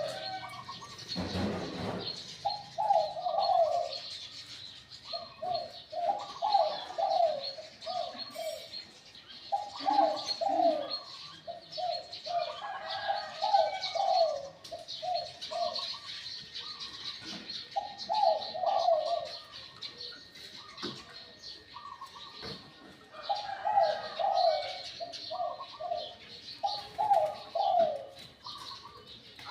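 A Liu Tan dove cooing over and over in short, quick, rolling phrases, the small, sweet voice it is sold for. High chirping of other small birds runs underneath, and there is a brief low thump near the start.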